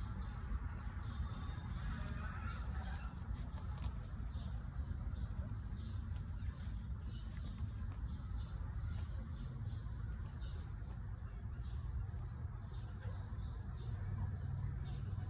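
Newborn puppies squeaking in short, high-pitched peeps, several a second, over a steady low rumble.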